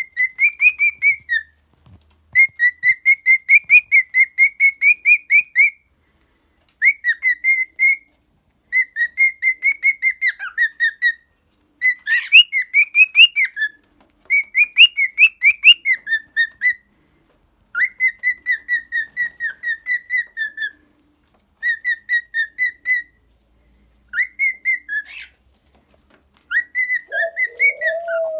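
Pet cockatiel singing: phrases of rapid, warbling whistled notes, about ten a second, broken by short pauses. A lower sound joins near the end.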